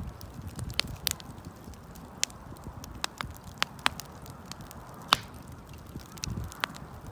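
Wood bonfire crackling: irregular sharp pops and snaps over a low rumble of the burning fire, the loudest pop about five seconds in.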